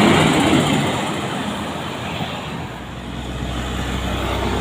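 Heavy truck engine running, with road and traffic noise; a steady low drone comes in about halfway through.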